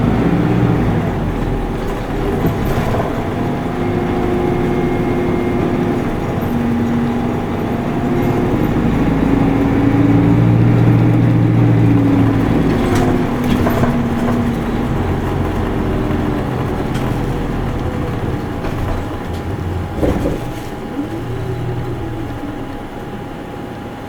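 Isuzu Erga Mio bus's four-cylinder diesel engine heard from inside the cabin while driving, its note rising and falling as it pulls and eases off. A short knock comes near the end.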